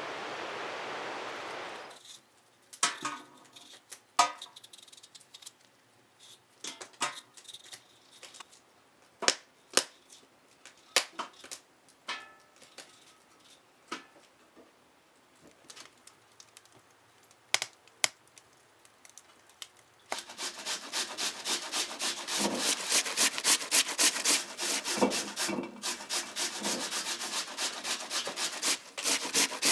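Potatoes being grated by hand on a metal grater: from about twenty seconds in, a steady run of rasping strokes, three or four a second. Before that come scattered clicks and knocks of potatoes being peeled and handled, and a hiss of rain that cuts off about two seconds in.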